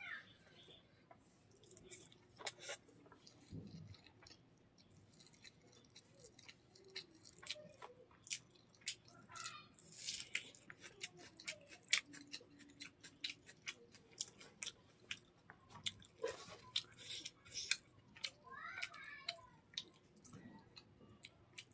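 Close-up chewing with many short wet mouth clicks and lip smacks from eating rice and chicken gizzard curry by hand. Fingers mixing the rice on a banana leaf make soft squishes now and then.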